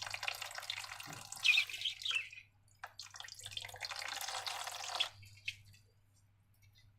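Liquid pouring and trickling in two spells, the first about two and a half seconds long and the second about two seconds, then it stops.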